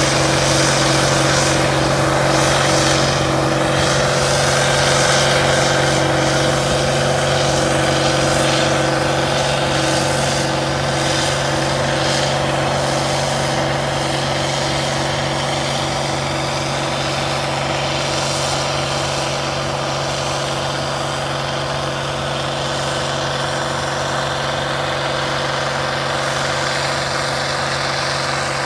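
International Harvester 1470 hillside combine running steadily during wheat harvest: a constant mechanical drone with a steady low hum and a fainter pulsing tone above it.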